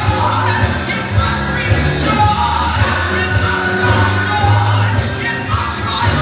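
Gospel song with singing over a band: a strong, steady bass line and regular drum hits.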